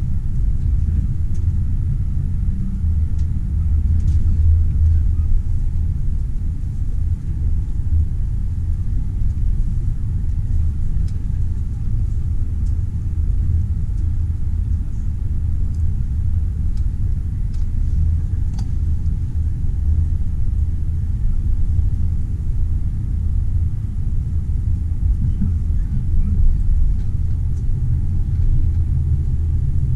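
Passenger train running along the track: a steady low rumble with a few faint scattered ticks.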